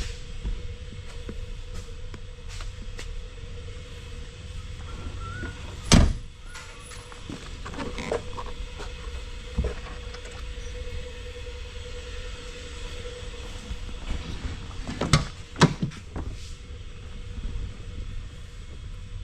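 A few sharp knocks or clunks over a steady low rumble and a faint hum: the loudest about six seconds in, another a few seconds later, and two close together near the end.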